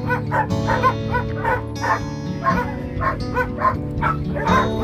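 A dog barking and yipping in quick short barks, about three a second, over background music.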